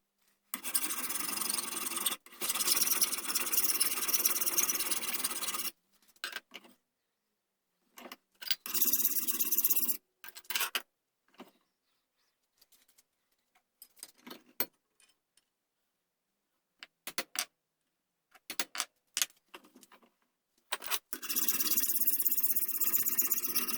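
A shaping tool rubbing and scraping on the wooden gunstock as the buttstock is shaped. It runs for several seconds, stops near the middle apart from a few short strokes, and starts up again near the end.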